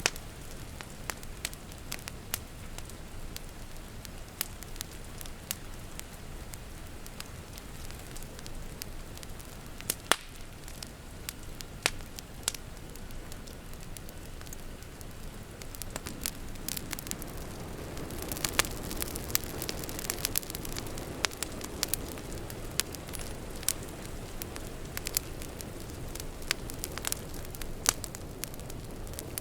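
Wood fire crackling and popping with irregular sharp snaps over a steady hiss of rain outside. The fuller, lower rushing sound swells about halfway through.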